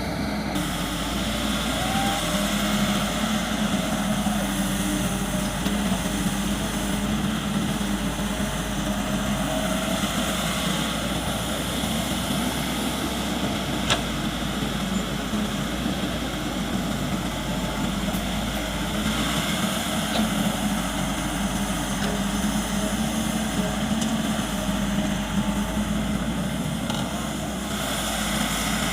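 Diesel engine of a CAT MS120-8 excavator running steadily with a low, even hum, and a single sharp click about halfway through.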